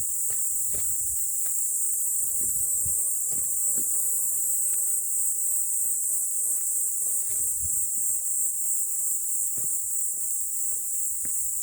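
A steady, high-pitched chorus of insects, such as crickets, with scattered short clicks and knocks nearer by.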